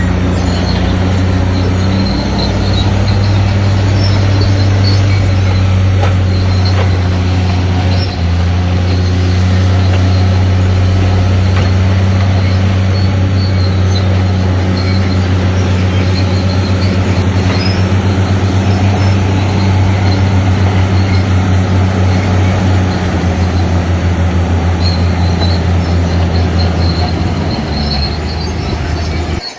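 Shantui DH7C crawler bulldozer's diesel engine running loud and steady, with metallic squealing from its steel tracks. The engine note shifts a few times, about two seconds in, around eight seconds and near the end.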